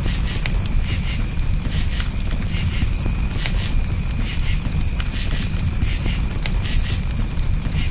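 Campfire burning with a steady low rush and scattered crackling pops, while crickets chirp in quick repeated pulses throughout.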